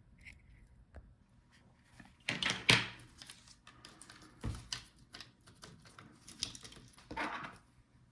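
Laptop plastic parts, the removed touchpad and the palmrest, being handled and set down on a work surface: irregular clicks, knocks and short scrapes, the loudest a little over two seconds in.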